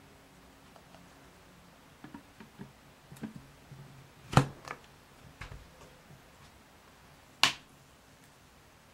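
Sealed plastic juice container ticking and clicking at its air-tight lid: a scatter of small irregular ticks, with two sharp, loud clicks about three seconds apart, around four and seven seconds in.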